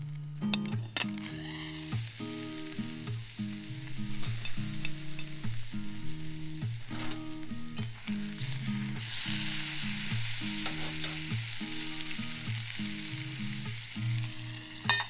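Food sizzling and frying in a skillet, the sizzle swelling louder about eight and a half seconds in.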